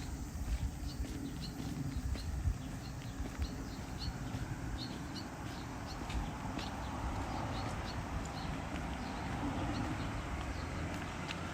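Outdoor ambience on a rainy walk: a steady wash of noise with scattered light ticks and clicks, with a rushing sound that swells in the second half.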